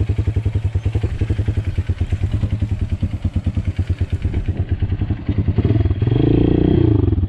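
Honda XR200's single-cylinder four-stroke engine running at low revs with an even chug of firing pulses, then revving up and easing off near the end.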